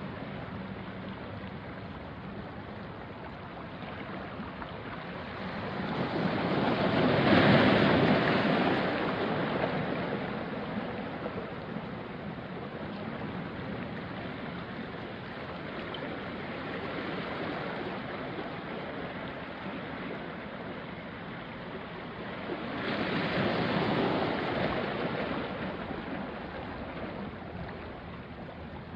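Small sea waves washing onto a rocky shore, a steady wash with two larger waves surging in and falling away, one about a quarter of the way in and one near the end.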